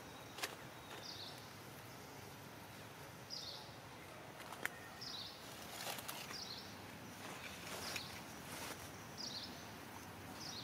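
Outdoor ambience: a bird calls with a short, high chirp that falls in pitch, repeated every one to two seconds, over a few sharp clicks and soft rustles.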